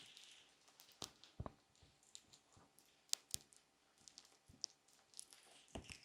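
Faint ASMR ear massage: fingers rubbing and tapping at a microphone's ears, heard as scattered soft scratches and about ten irregular sharp ticks.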